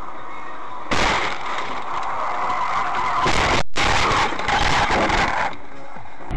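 Car tyres skidding: a loud rushing hiss that starts suddenly about a second in, breaks off briefly in the middle and stops about a second before the end, over steady in-car road noise.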